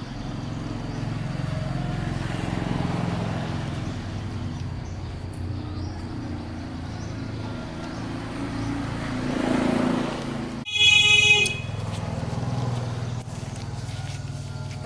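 A steady low rumble, then, about eleven seconds in, a short, loud horn-like toot before the rumble carries on.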